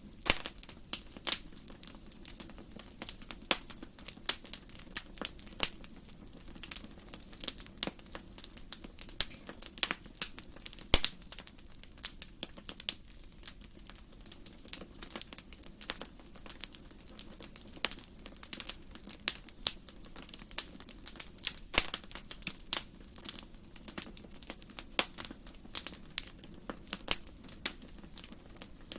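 Wood fire burning in a fireplace, crackling and popping with many irregular sharp snaps over a steady low hiss of the flames.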